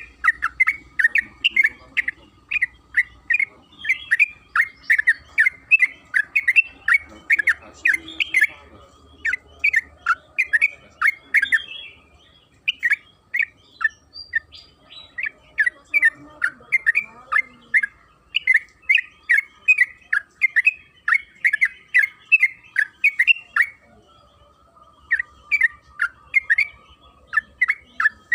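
Yellow-vented bulbul (trucukan) singing: long, rapid runs of short, bubbling chirps, several a second, with a few brief pauses.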